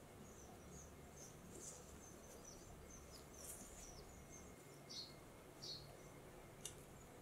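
Faint bird chirps, short high notes coming every half second or so, over quiet room tone. One sharp click near the end.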